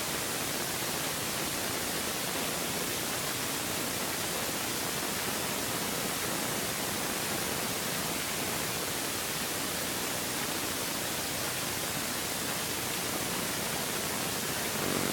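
Steady, even hiss with no bangs or pops.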